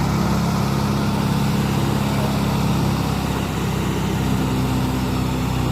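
Sonalika 60 RX tractor's diesel engine running steadily at an even pitch while pulling a heavy load.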